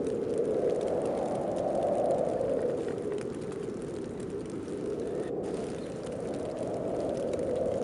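Snowstorm wind blowing steadily, a low rushing that swells in gusts about two seconds in and again near the end.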